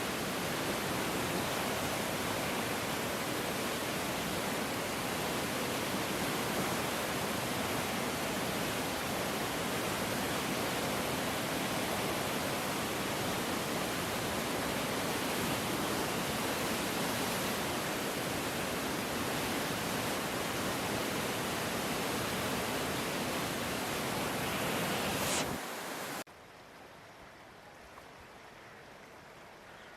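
Flooded river rushing: a steady, loud, even noise of churning water that cuts off abruptly about twenty-five seconds in, leaving a much quieter background.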